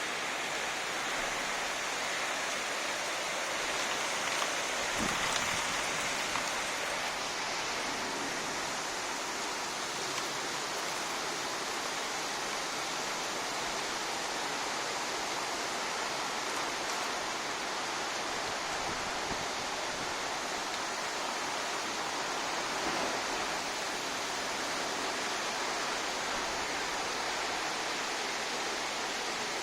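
Heavy monsoon downpour: a steady, dense hiss of rain, with a brief low thud about five seconds in.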